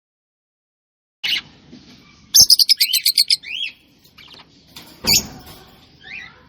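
A bird chirping after a second of silence: a single chirp, then a fast run of about nine high chirps with a few gliding whistled notes, and two more calls near the end.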